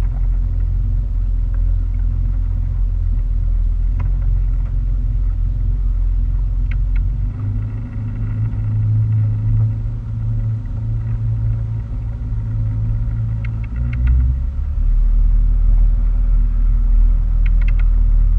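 Steady low rumble of a motorboat underway, engine and rushing air. For several seconds in the middle the rumble's tone changes and narrows, then it returns to its earlier sound.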